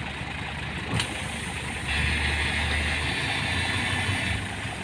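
Heavy vehicle's engine running, revving up about two seconds in and holding higher for a couple of seconds before dropping back, with a single sharp click about a second in.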